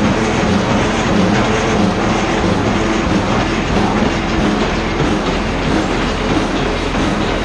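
Valtra 8750 tractor's straight-piped six-cylinder turbo diesel running loud and continuous. A pitched drone is strongest in the first half, then blurs into rougher exhaust noise.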